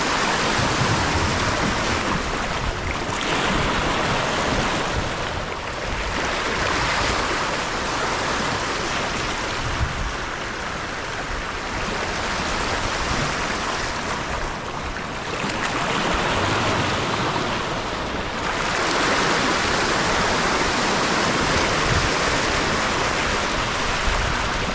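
Sea washing against shoreline rocks, surging and easing every few seconds.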